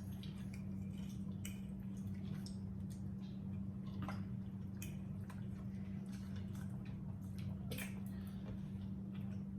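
Faint wet chewing and mouth sounds of people eating roasted chicken, with scattered small clicks, over a steady low hum.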